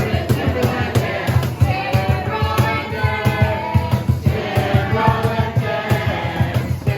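A group of voices singing a praise song together over an accompaniment with a steady beat.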